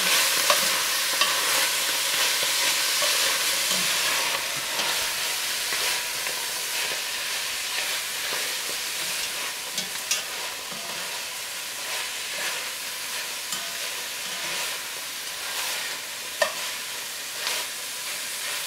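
Broccoli rabe sizzling as it sautés over medium-high heat in an enameled cast-iron Dutch oven: a steady frying hiss. Scattered clicks and scrapes of metal tongs stirring it against the pot come through, with one sharper knock near the end.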